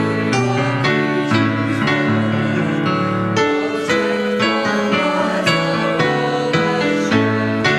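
Piano playing a hymn tune in steady chords, the harmony changing about every half second.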